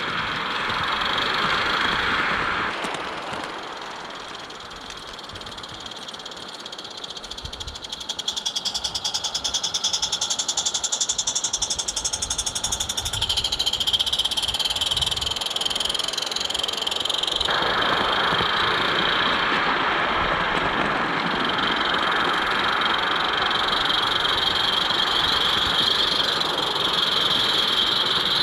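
Small live-steam garden-railway locomotive (a Roundhouse Katie) running along the track, its rapid exhaust beats and wheel noise going steadily. The sound dips quieter for a few seconds early on and fills out again about two-thirds of the way through. A steady high-pitched tone carries on in the background.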